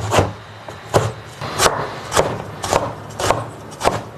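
Knife chopping eggplant into small dice, in sharp separate strokes about two a second.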